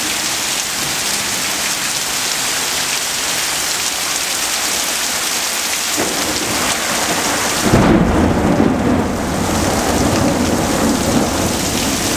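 Heavy rain pouring steadily. About six seconds in, a low rumble of thunder builds, loudest around eight seconds, then rolls on more quietly.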